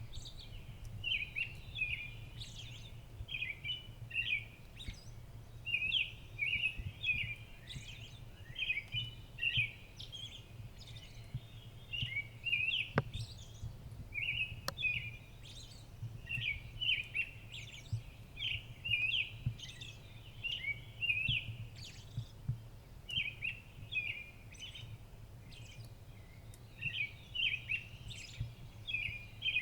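Songbirds chirping in quick clusters of short, high notes that repeat every second or two over a steady low hum, with two sharp clicks about halfway through.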